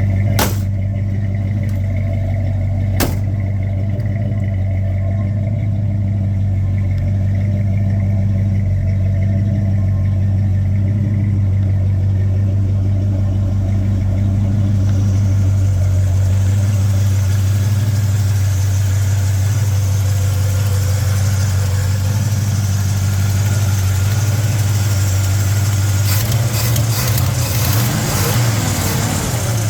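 The non-stock engine of a 1953 GMC panel truck idling steadily with a mellow exhaust note. Two sharp clicks come in the first few seconds, a hiss builds from about halfway, and a run of clicks and rattles comes near the end.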